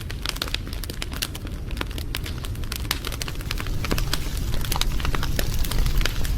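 Wood fire crackling, with frequent irregular sharp pops and snaps over a low steady rumble of the flames, growing a little louder in the second half.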